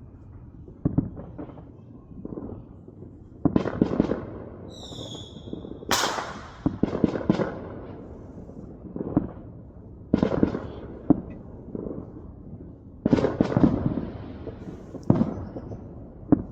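Consumer fireworks going off all around: repeated sharp bangs and several rapid crackling volleys. A brief high wavering whistle comes about five seconds in, just before the loudest bang.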